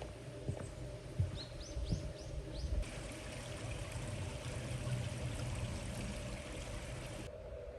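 Liquid being poured in a steady stream for about four and a half seconds, starting and stopping abruptly. Before it, a small bird chirps several short rising notes over a few light knocks.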